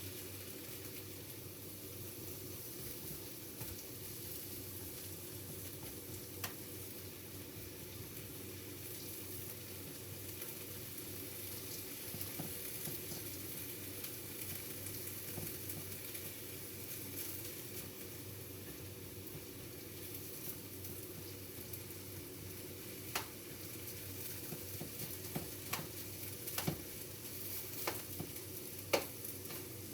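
Rice and stir-fry vegetables sizzling steadily in a frying pan, with a few sharp clicks of a utensil against the pan, mostly in the second half.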